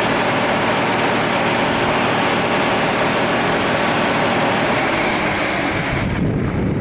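Train running close by: a steady engine drone under a loud, broad rush of noise that drops away about six seconds in.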